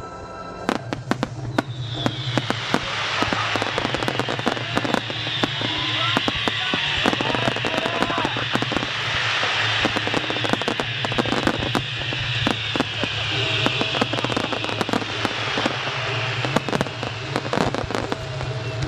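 Aerial fireworks display: many sharp reports of shells bursting in quick succession over a dense crackling hiss that builds about two seconds in and holds for most of the stretch.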